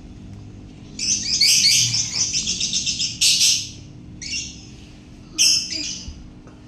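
Lovebird singing its long 'ngekek' chatter: a rapid run of shrill, high chattering notes for about two seconds starting a second in, then a louder harsh call and a few shorter calls.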